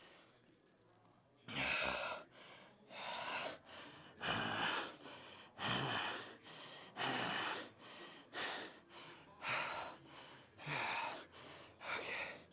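A man breathing hard after a strenuous set of leg exercise, with about nine deep, gasping breaths roughly a second and a quarter apart. They start after a second or so of quiet. This is recovery panting from exertion.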